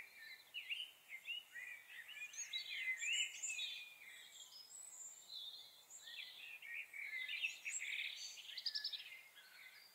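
Small songbirds chirping and singing in the background, a busy run of short, high sliding chirps and trills.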